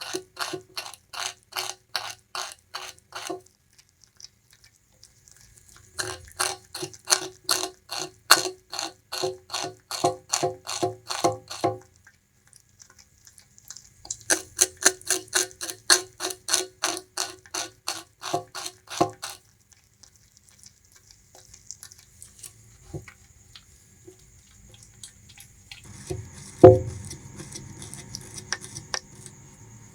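Bamboo rat crunching sugarcane with its teeth, in three bouts of rhythmic chewing of about three to four bites a second, with short pauses between. Near the end there are only scattered clicks and one loud knock.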